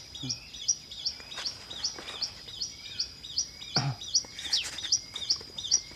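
Birds chirping: short, high, repeated call notes, two or three a second, over a steady high thin tone. A single knock comes about four seconds in.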